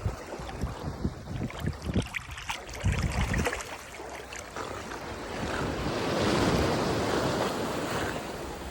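Atlantic surf: a wave breaks and washes up the beach, a broad rushing wash that swells about halfway through and then eases. Wind buffets the microphone with low thumps in the first few seconds.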